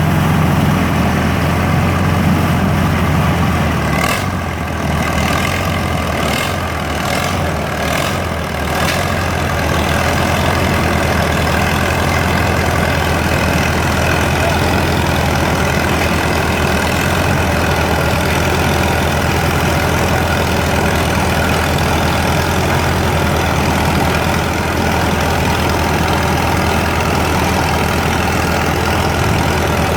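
Tractor engine running steadily with a deep, even hum, with a few brief dips and clicks about four to nine seconds in.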